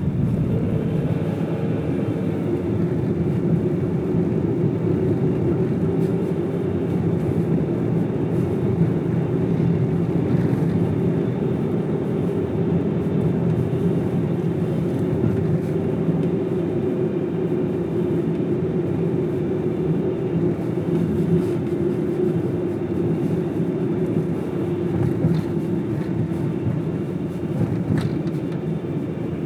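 Steady road and engine noise of a car driving, heard from inside the cabin: a constant low rumble with no change in pace.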